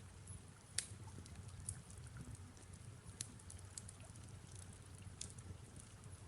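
Faint fireplace crackle: irregular sharp pops and snaps, the sharpest about a second in, over a low steady rumble and the light hiss of soft rain.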